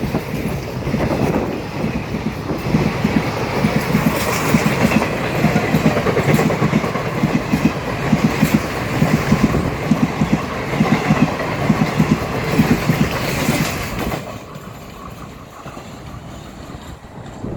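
Indian Railways express passenger train passing at speed, its wheels clattering over the rail joints in a steady, repeating rhythm. About fourteen seconds in the noise falls away sharply as the train goes by, leaving a quieter rush of wind.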